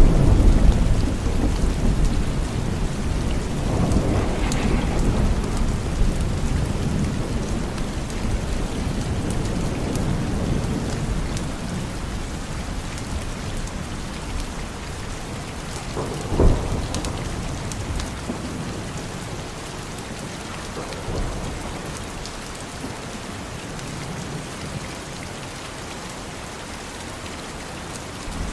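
Steady rain with thunder: a loud thunderclap right at the start that rumbles on for a few seconds, another swell of rumbling about four seconds in, and a sharp crack about sixteen seconds in. The rain carries on more quietly toward the end.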